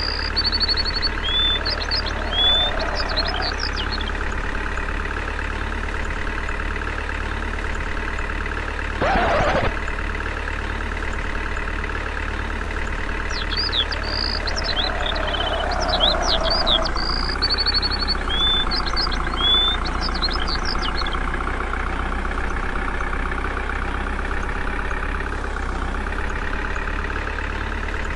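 Small motor of a DIY model tractor running steadily with an even whine, while birds chirp now and then. A short rustling burst about nine seconds in.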